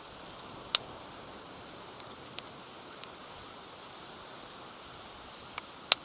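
Steady wash of sea surf, with a few sharp pops of a wood campfire crackling: one loud pop about a second in, two small ones in the middle, and a pair near the end.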